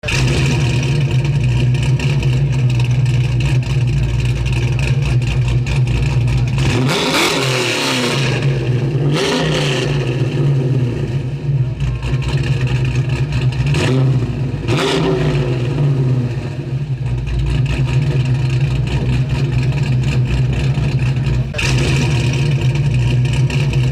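1968 Mercury Cougar's 302 V8 with a 500-lift cam idling loudly and steadily, blipped up and back down three times, about seven, nine and fourteen seconds in.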